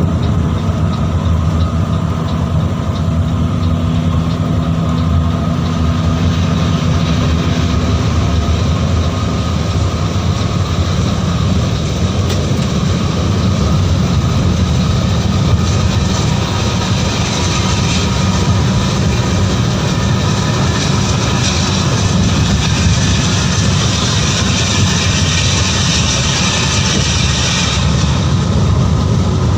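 Mercedes-Benz 1626 NG coach running at speed on the highway: a steady engine drone under road and wind noise. About halfway through, the rushing hiss grows louder, then drops back shortly before the end.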